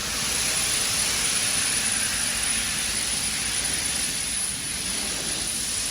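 Steady hissing rush of shop machinery, with a thin, constant high whine above it.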